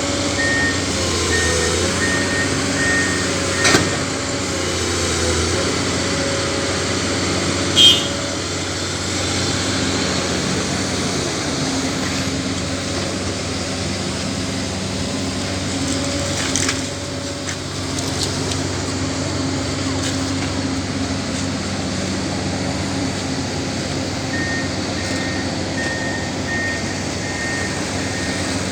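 Diesel engine of heavy equipment running steadily, with an electronic warning alarm beeping rapidly at the start and again near the end. Two sharp knocks come about four and eight seconds in.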